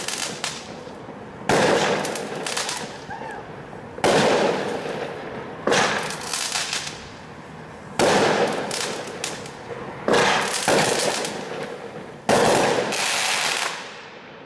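A neighbour's fireworks exploding: about seven loud bangs, one every second and a half to two seconds, each fading away over a second or so.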